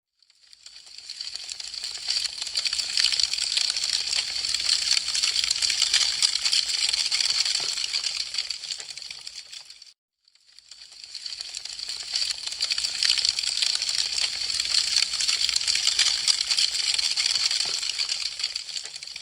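Wood fire crackling: a dense, rapid stream of small sharp pops and snaps. It swells up and fades away twice, with a brief dropout about ten seconds in.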